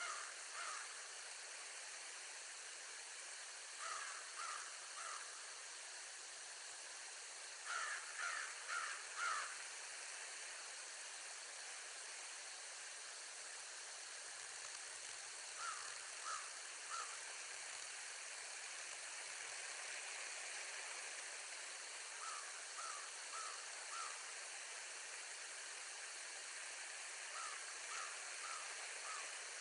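A bird calling in five short series of three to five notes, about two notes a second, the loudest series about eight seconds in, over a steady hiss.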